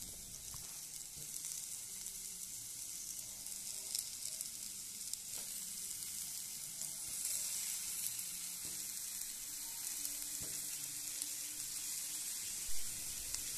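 Sliced onions, green chillies and spices sizzling steadily in hot oil in a clay pot as spice-coated raw mango pieces are laid in. There are a few faint clicks and a brief soft bump near the end.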